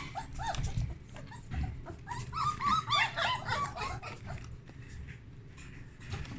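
Young German Shepherd puppies crying: many short, high squeaks that overlap, thickest from about two to three and a half seconds in, with a few knocks among them.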